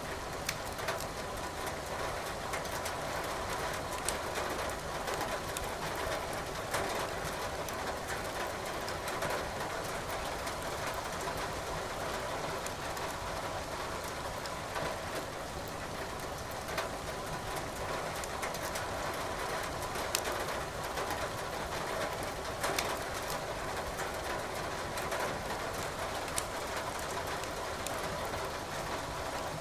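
Wood logs crackling in a fireplace, with sharp irregular pops over a steady patter of rain.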